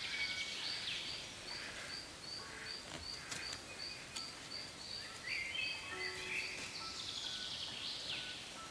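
Birds calling, with a high chirp repeated about three times a second throughout and scattered gliding calls over it.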